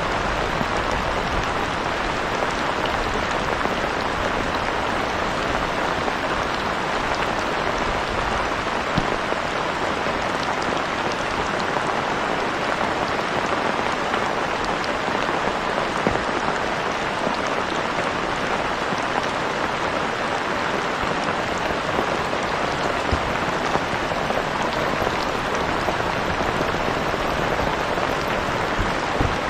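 Heavy rain falling steadily: an even, dense hiss with a few sharper drop taps scattered through it.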